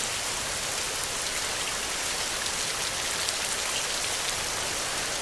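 Steady rain falling on a surface: a dense, even hiss of many small drops.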